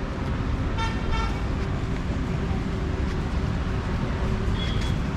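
Steady rumble of road traffic, with a vehicle horn giving two short toots about a second in.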